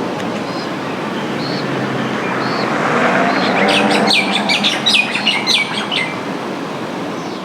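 White terns (Manu-o-Kū) calling: a few single short calls, then a quick run of falling chirps in the middle, over steady traffic noise that swells briefly.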